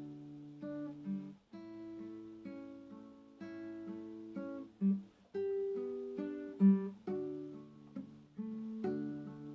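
Acoustic guitar playing a slow piece of plucked notes and gently strummed chords that ring on, with a few louder accented notes.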